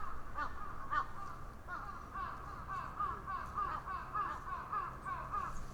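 A bird calling in a fast run of short, repeated arched notes, about three a second.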